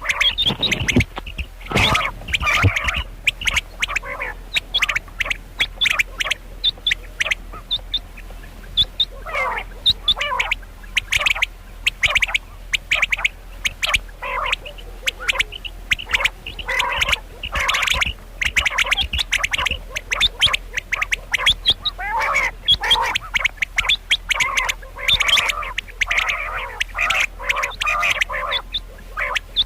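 Female common quail calling, short harsh notes repeated rapidly in clusters throughout.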